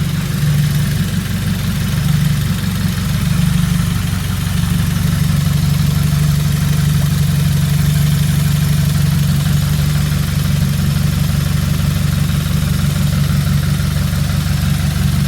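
Subaru WRX turbocharged flat-four engine idling steadily. The owner believes the misfire he was chasing is still not fixed.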